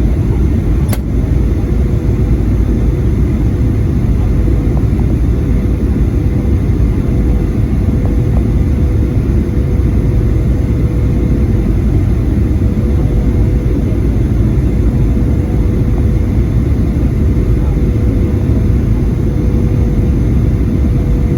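Steady cabin rumble inside a Boeing 737-800, with its CFM56 engines giving a steady whine over the deep rush of the aircraft noise. There is a brief click about a second in.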